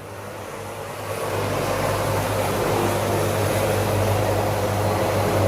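A helicopter running nearby: a steady hum and rush of rotor and engine noise that grows louder over the first two seconds, then holds.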